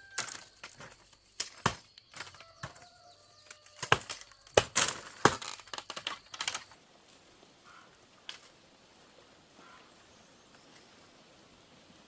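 Irregular sharp strikes of hand-tool work, some with a brief ringing after them, for about the first seven seconds; then they stop.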